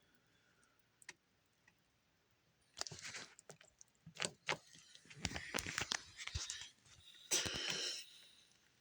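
Handling noises while preparing a bowl of cereal: short bursts of rustling and clattering with sharp clicks, about three seconds in, again for a couple of seconds around the middle, and once more near the end.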